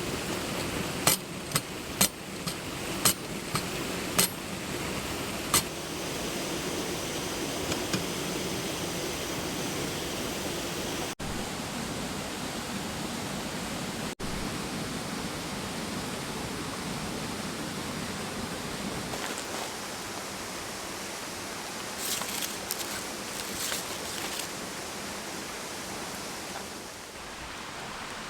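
Steady rushing of a mountain stream. Sharp cracks stand out over it: about seven in the first six seconds and a quick cluster near the end.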